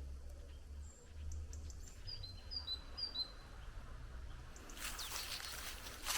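A small bird calls three times, each a short high chirp followed by a slightly lower note, about two to three seconds in. From about five seconds in, footsteps crunch on the path.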